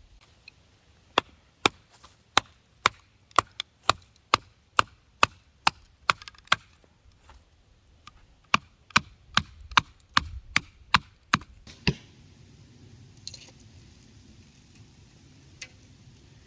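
Wood being chopped: about twenty sharp, evenly spaced strikes, roughly two a second, in two runs with a short break between them.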